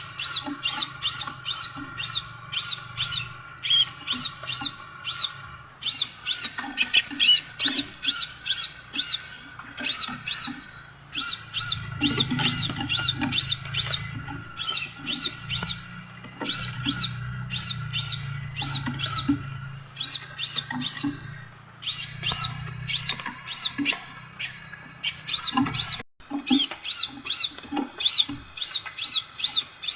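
Sepah raja bird calling: fast runs of sharp, high chirps, about four or five a second, in bursts of a few seconds with short breaks between. A faint low hum lies underneath.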